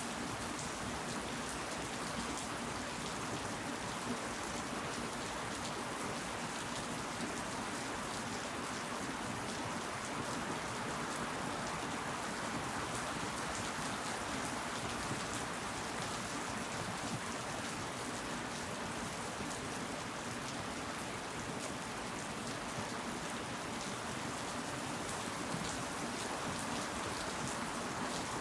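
Steady rain falling, a dense patter of raindrops on surfaces with a continuous hiss.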